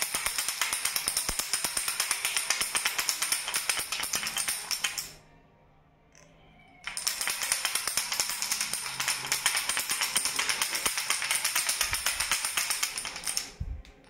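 A baby rattle shaken fast and continuously, a dense jangling rattle of its beads. It stops about five seconds in, pauses for a couple of seconds, then is shaken again for about seven seconds.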